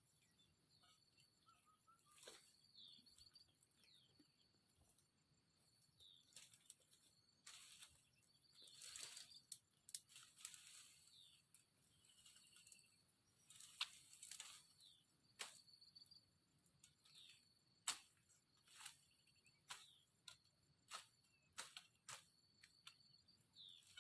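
Irregular snapping and rustling of brush and branches being handled or pushed through, with a few short falling bird chirps and a faint steady high insect-like tone behind.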